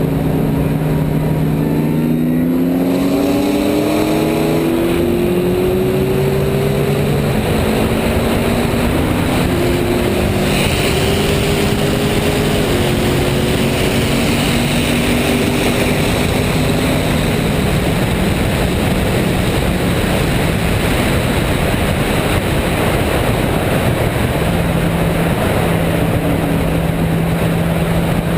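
Supercharged cars racing flat out on a highway. The engine notes climb steeply, then step up and down in pitch through the gears before settling to a steady drone near the end, over loud, constant wind and road noise.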